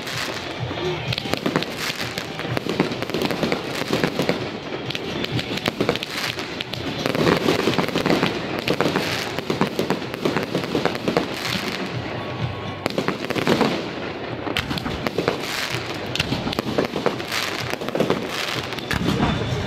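Aerial fireworks bursting one after another in a dense, continuous run of bangs and crackles, recorded through an HTC One smartphone's microphone.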